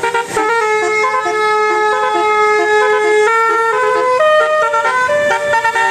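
Loud siren-like electronic tones: held notes that step up and down in pitch several times.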